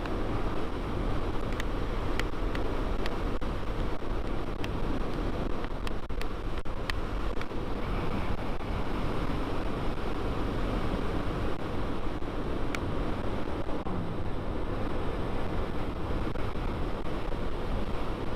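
Wind rushing over the microphone over the steady running of a Yamaha Vino 125 scooter riding at road speed.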